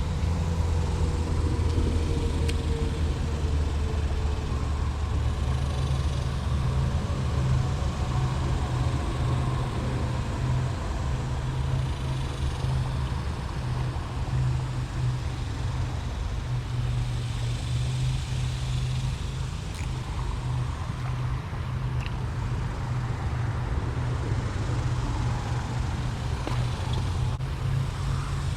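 Steady low motor hum with road-traffic noise, its pitch stepping up about six seconds in, with a few faint clicks.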